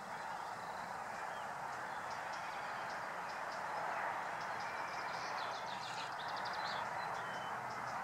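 Small birds chirping and trilling over a steady rushing background, with a fast trill about five to six seconds in.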